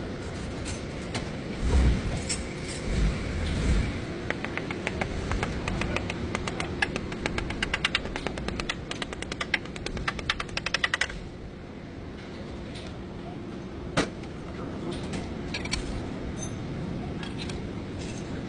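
Mechanic's tool work: a few low knocks, then a run of rapid, evenly spaced sharp clicks for about seven seconds, and a single sharp knock a few seconds later.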